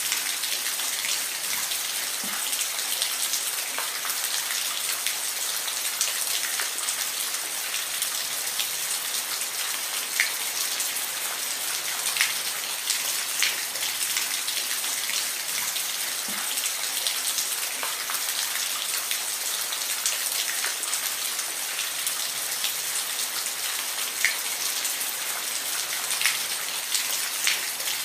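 Steady rain falling, an even hiss with scattered sharper drops and patters striking a surface.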